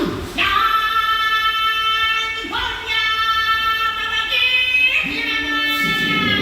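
Show music with a high singing voice holding long, sustained notes, each lasting about two seconds before sliding to the next.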